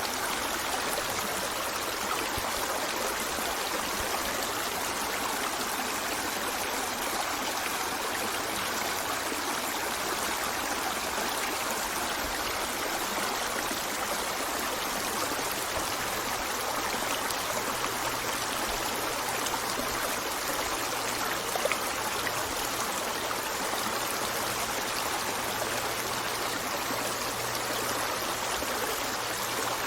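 River water flowing steadily over rocks, a continuous rushing with small trickles and splashes, and one brief louder splash about two-thirds of the way through.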